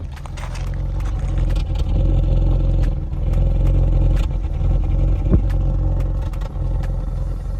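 1986 Honda Ballade's carburetted 1500 four-cylinder engine running just after a cold start. It grows louder over the first couple of seconds, with sharp ticks here and there.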